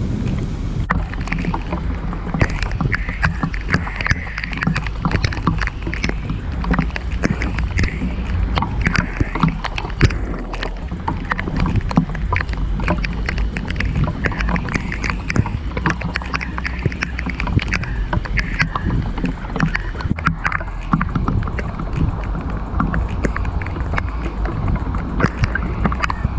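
Steady rain, a dense irregular patter of drops hitting close to the microphone, over a constant low wind rumble on the microphone.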